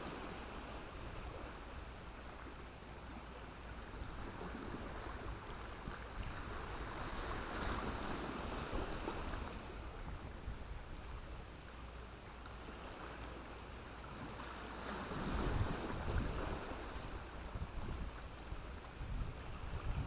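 Sea waves breaking and washing up the shore in a steady wash, swelling twice, the second swell about three-quarters of the way through being the loudest, with a deep rumble.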